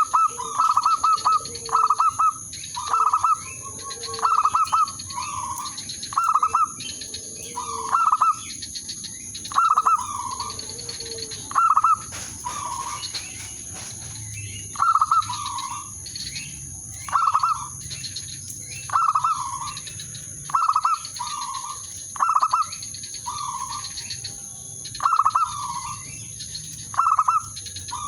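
Zebra dove cooing: short rolling coo phrases repeated about once every second or so, opening with a quick stuttering run of pulses, the calling of a lure bird to draw rival doves. A steady high-pitched whine runs underneath.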